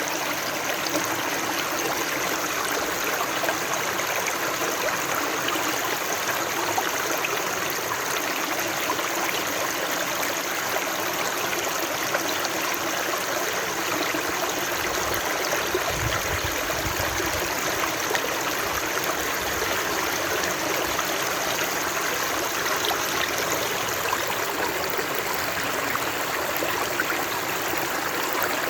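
Stream water flowing steadily over rocks, an even rushing and babbling, with a brief low rumble about halfway through.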